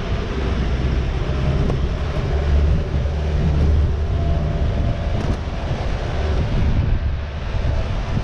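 Steady low rumble of a moving vehicle heard from on board, with wind noise on the microphone.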